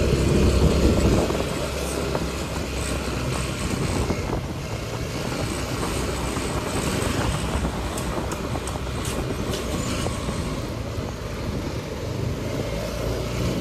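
Passenger train running: a steady rumble and rattle of the carriages, a little louder for the first second or so, with a few short clicks about eight to nine seconds in.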